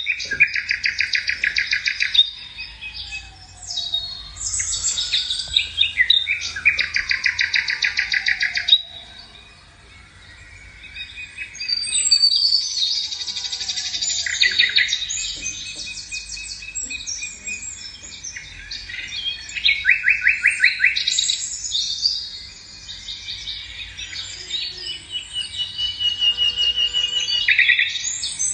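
Songbirds singing in a chorus of fast trills and chirps, with a few long whistles that slide down in pitch in the first half.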